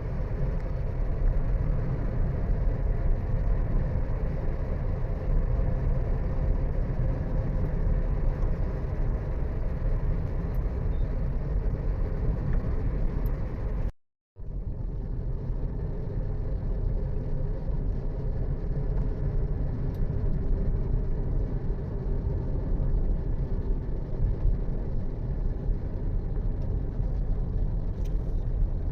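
Steady engine and road noise of a vehicle on the move, a constant low rumble. About halfway through it drops out completely for a split second and then resumes.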